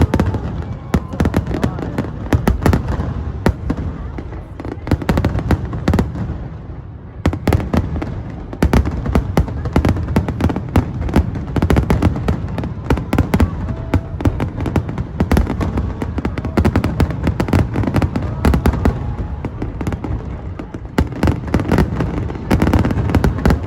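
Fireworks display: a near-continuous barrage of sharp bangs and crackling bursts, thinning briefly about seven seconds in before picking up again.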